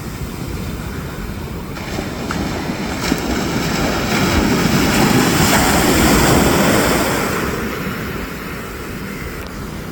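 Sea waves breaking and washing up the shore, one surge swelling a few seconds in and fading away again, with wind on the microphone.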